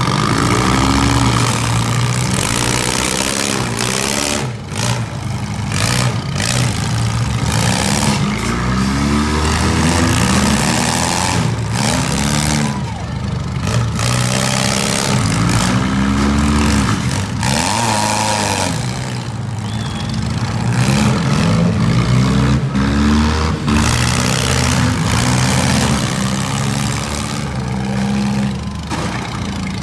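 Several four-cylinder demolition-derby cars' engines revving up and dropping back, over and over, as the cars accelerate, reverse and turn.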